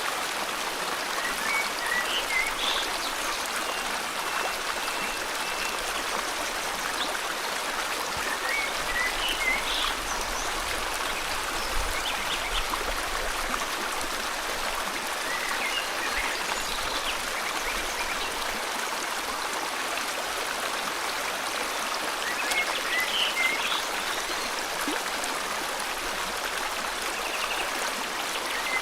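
Steady rush of river water flowing, with short bird chirps breaking in every several seconds over it.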